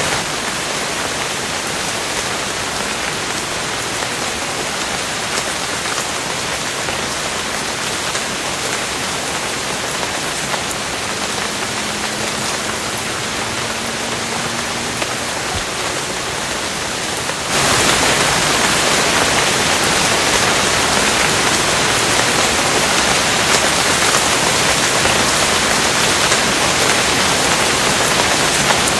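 Steady rain falling, an even hiss of drops with no thunder. About two thirds of the way through it suddenly gets louder and brighter and stays that way.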